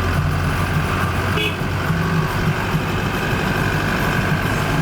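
Steady engine hum and road noise from a moving vehicle, with a brief high tone about a second and a half in.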